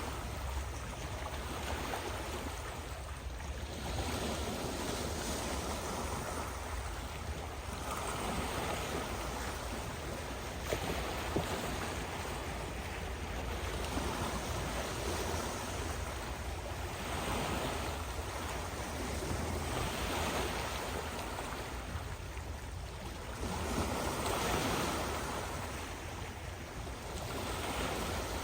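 Sea waves breaking and washing on the shore: a steady rushing of surf that swells and eases every few seconds, over a low rumble.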